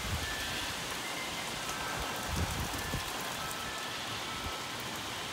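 Heavy rain pouring steadily, with a metal tube wind chime ringing faintly now and then in single soft tones. A couple of brief low wind rumbles come about two to three seconds in.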